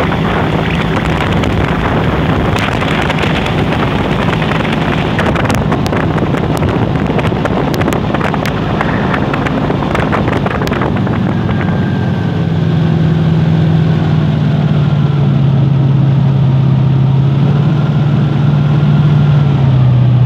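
Airboat running at speed: engine and big air propeller over a rush of wind and water. About twelve seconds in, the engine note settles into a clear, steady drone, which drops in pitch near the end.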